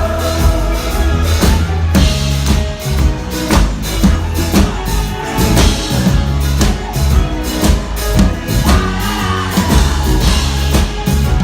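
Live band playing a pop-rock song, with a heavy bass and a steady drum beat to the fore and no clear vocal line.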